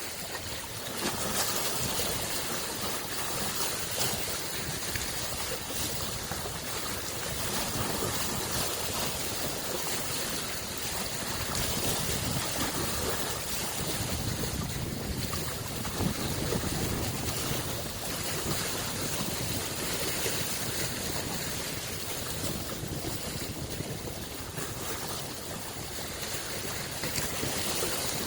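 Small waves lapping and washing against a lake shore, a steady water noise that swells and eases every few seconds.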